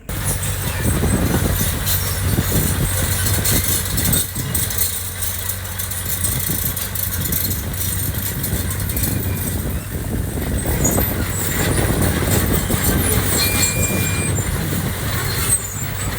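Diesel engine of heavy earthmoving machinery running steadily under work, with scattered metallic clanks and knocks.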